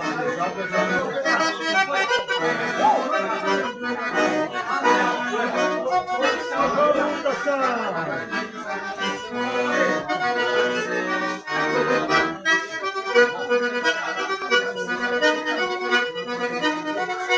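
Accordion (sanfona) playing an instrumental passage of northeastern Brazilian folk music, with held notes and chord changes. Voices can be heard faintly underneath.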